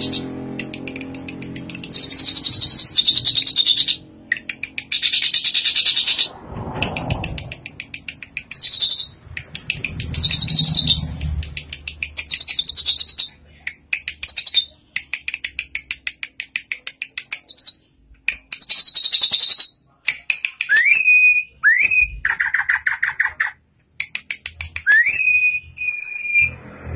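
A drongo (sri gunting) calling: repeated bursts of rapid, harsh chattering with short pauses between them, then near the end a few short upward-sweeping whistles.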